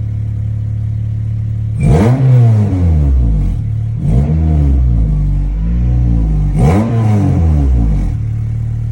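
Swapped Honda F20B 2.0-litre four-cylinder engine in a 1998 Prelude, breathing through an aftermarket full exhaust and intake, idling, then revved three times, the pitch climbing and falling back each time before settling to idle near the end.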